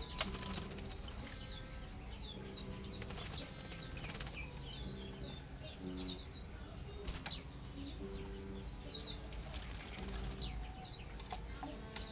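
Caged songbirds giving quick runs of short, sharp chirps that sweep downward in pitch, with wings flapping and light knocks against the cage in between.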